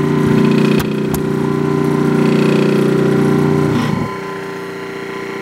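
Rebuilt electric motor of a 1930s Delta DP220 drill press running on new bearings: a steady electric hum, with two sharp clicks about a second in. The hum gets a little quieter about four seconds in.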